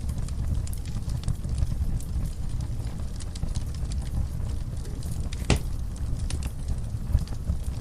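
Wood fire in a fireplace crackling: a steady low rumble of the flames under frequent sharp pops and snaps, one much louder pop about five and a half seconds in.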